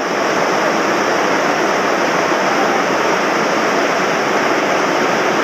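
Loud, steady rushing of a rain-swollen mountain stream running high and fast.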